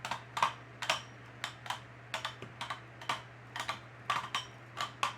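Two 3D-printed Beyblades spinning in a stadium and clacking against each other in irregular sharp clicks, a few a second, over a steady hum.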